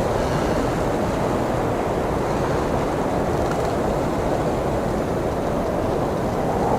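Blizzard wind blowing steadily, a low, even rush of noise without gusts or breaks.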